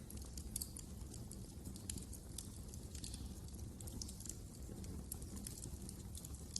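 Wood fire crackling: irregular sharp little pops and snaps over a steady low rumble.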